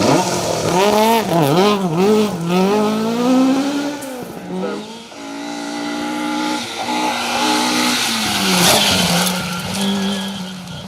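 Rally car engine revving hard, its pitch swinging quickly up and down with throttle and gear changes, then holding a steadier note. A burst of tyre noise comes near the end.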